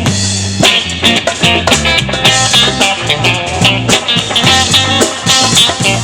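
Live band playing an instrumental passage: guitar over a steady drum beat and a low sustained bass line.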